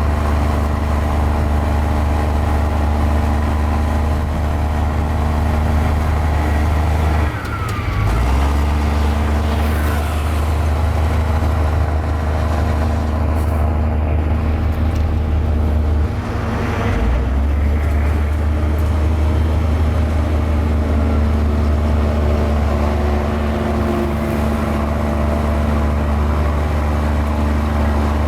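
Mini Komatsu bulldozer's diesel engine running steadily under load, with the engine note dipping and changing pitch briefly twice, about a third and about halfway through.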